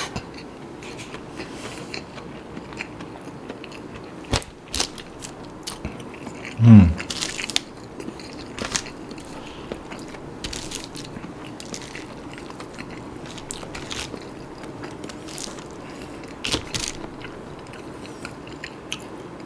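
Close-miked chewing and mouth sounds of a person eating nasi kandar rice and fried chicken by hand, with scattered wet smacks and crunchy bites. About seven seconds in, a short hum from the eater that falls in pitch stands out as the loudest sound.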